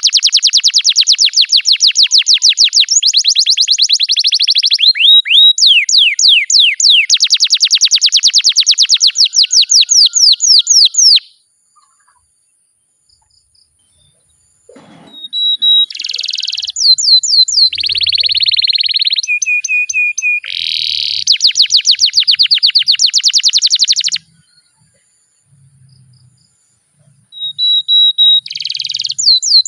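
Domestic canary singing long rolled trills: rapid runs of repeated high notes in phrases several seconds long. The song breaks off twice for about three seconds.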